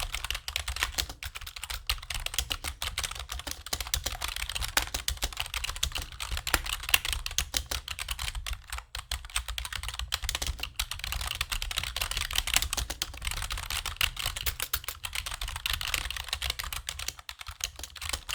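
Fast, continuous typing on a computer keyboard: a dense run of crisp key clicks, with brief pauses about nine seconds in and near the end, over a low steady hum.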